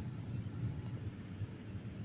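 Steady low rumble of airliner cabin noise aboard a Boeing 787-9, the hum of engines and airflow heard from a passenger seat.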